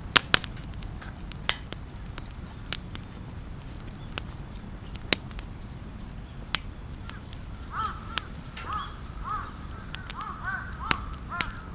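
Scattered sharp pops and cracks from a wood campfire, the loudest just after the start. From about halfway on, crows caw in a run of short, repeated calls.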